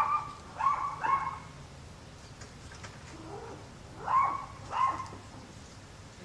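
Short, high-pitched cries from a pet animal, in two groups: three in quick succession at the start, then after a pause a fainter one and two louder ones about four to five seconds in. A few faint clicks can be heard between the groups.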